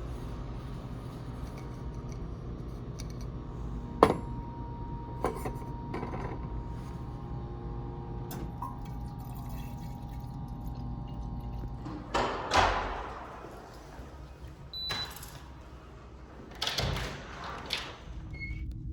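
Water being dispensed into a container in two short spells, each about a second, the first the louder, after a few sharp clicks and knocks, over a steady mechanical hum.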